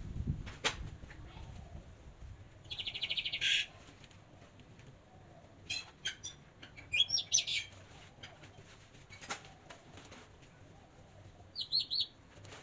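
Small birds chirping: a rapid trill about three seconds in, a run of quick rising chirps a little past the middle, and three short chirps near the end, with a single click early on.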